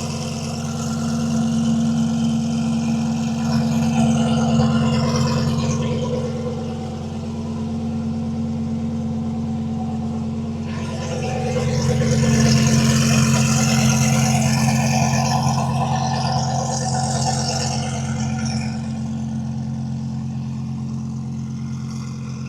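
Twin-turbo Audi R8 engine idling with a steady low drone, swelling louder twice without a change in pitch.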